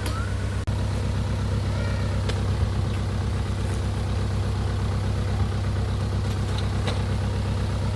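Small plantation truck's engine idling steadily, with an even low running note. The sound drops out for an instant under a second in.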